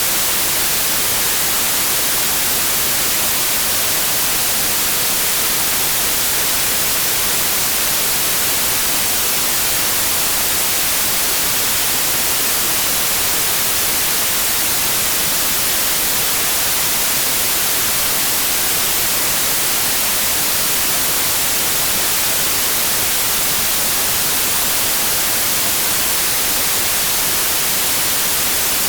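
Steady white noise: an even, unchanging hiss with no tones or breaks.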